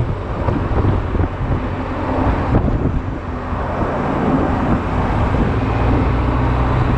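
Honda Silver Wing maxi-scooter under way on the road: a steady engine and road rumble with wind buffeting the camera microphone.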